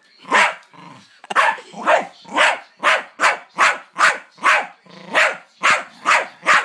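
A dog barking over and over in short, sharp barks, about two or three a second, worked up at a key being held toward it.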